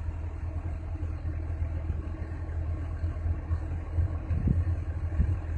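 Heavy earthmoving machine's diesel engine running steadily with a low throb, with a couple of dull knocks near the end.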